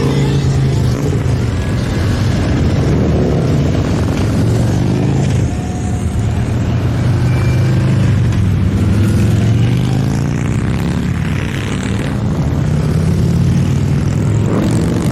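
A stream of motorcycles riding past in a parade, a continuous engine din with one bike's note after another rising and falling in pitch as it goes by.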